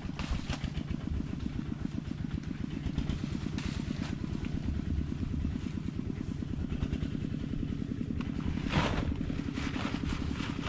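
A small engine running steadily with a fast, even beat, with a short rattle about three-quarters of the way through.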